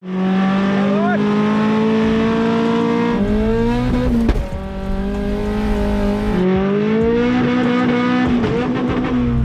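Turbocharged four-cylinder 1.8T 20-valve engine of a Mk2 Golf accelerating hard on a drag run. Its note climbs steadily in each gear and drops at each of three gear changes, with a sharp click at the second change.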